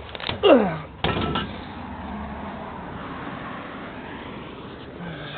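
Chevrolet S10 pickup idling as it warms up, a steady hum. Just before it starts, a short creak falls in pitch and is followed by a knock about a second in.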